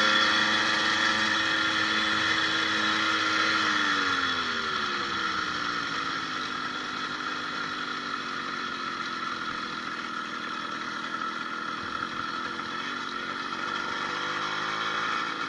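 80cc two-stroke motorized-bicycle engine, running on a new needle-bearing wrist pin and piston, running steadily under load, then dropping in pitch about four seconds in as it slows, and running lower for the rest with a slight rise near the end, over a steady rush of wind and road noise. The engine sounds smooth.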